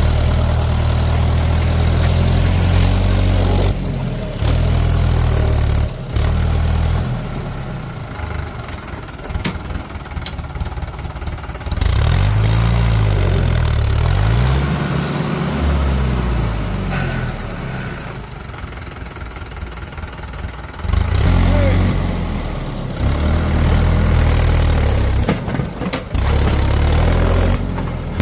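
Heavy diesel engine running, its pitch rising and falling as it is revved for a few seconds in the middle, with sudden breaks in the sound every few seconds.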